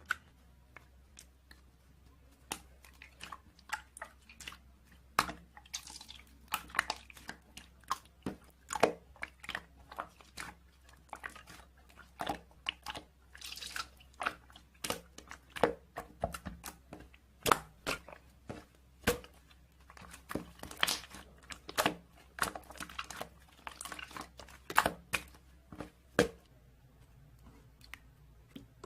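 Marbled slime being squished and poked by hand, making irregular wet clicks and small air-bubble pops, several a second at times, which stop shortly before the end.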